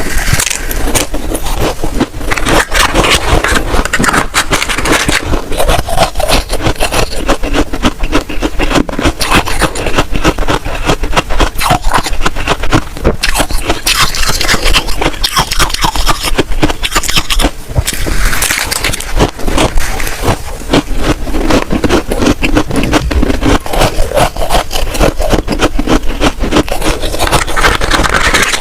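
Freezer frost being scraped and crunched close to the microphone, a dense run of gritty, crackling scrapes with no break.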